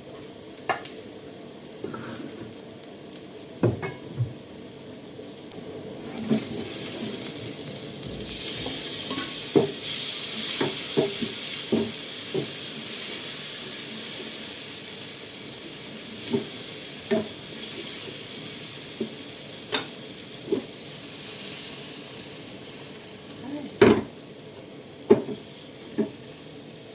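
Food sizzling in a hot pan. The sizzle swells about six to eight seconds in and dies down after about twenty seconds, while a cooking spoon knocks and scrapes against the pot now and then. The loudest knock comes near the end.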